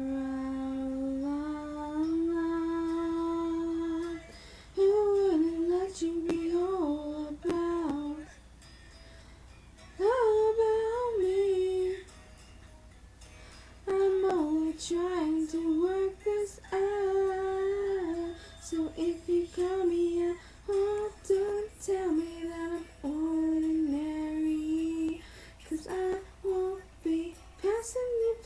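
A woman's voice singing a wordless melody, holding notes and sliding between them, with short pauses between phrases.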